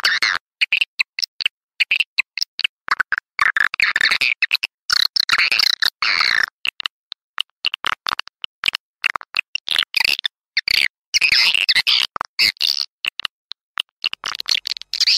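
Swiftlet lure-call recording (suara panggil) for swiftlet houses: rapid, high twittering chirps of edible-nest swiftlets, chopped into short bursts that stop and start abruptly with brief silences between them.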